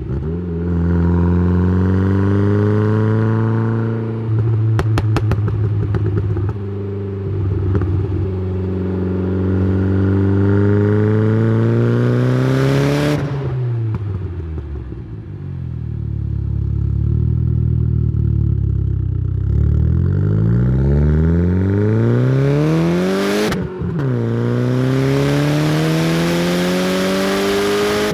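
Exhaust note of a tuned, turbocharged Saab 9-3 with a B204 2.0-litre four-cylinder, recorded at the tailpipe. Revs climb steadily under acceleration, drop sharply at a gear change about halfway through and again near the end, and climb again after each.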